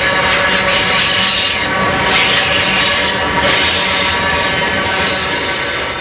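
The last container wagons of a freight train rolling past on steel wheels, a continuous rumble of wheels on rail with steady high ringing tones over it. It begins to fade near the end as the train moves away.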